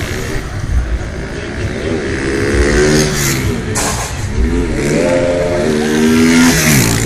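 Motorcycle engines revving, their pitch rising and falling several times as the bikes accelerate and ease off.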